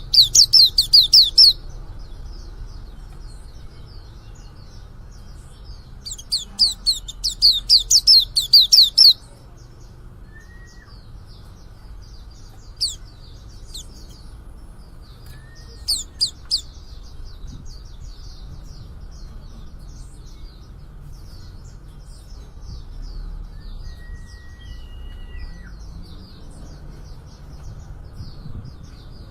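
A young male pleci (white-eye) twittering in fast, high, chattering phrases, the halting song of a young bird just beginning to sing. Loud rapid bursts come at the start and again from about six to nine seconds in, with a couple of sharp chirps later and soft twittering between them.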